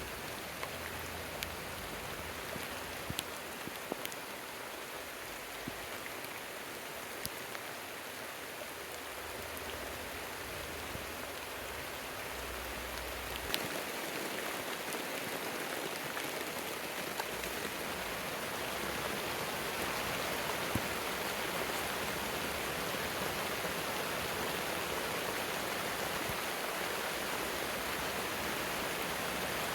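Heavy rain falling steadily, with scattered single drops tapping sharply on a surface. The rain grows a little louder about halfway through.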